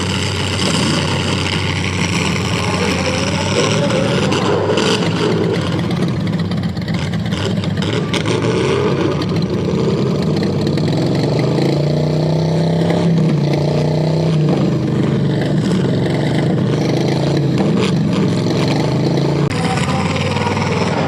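Several full-size derby cars' V8 engines revving hard and unevenly, pitch rising and falling, with a few sharp bangs of cars crashing into each other.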